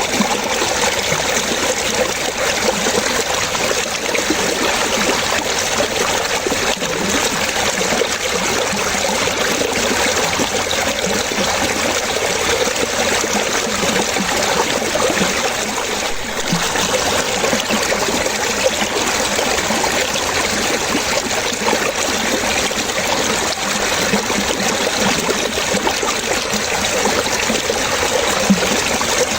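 Running water trickling and splashing steadily, with a constant bubbling rush and no pauses.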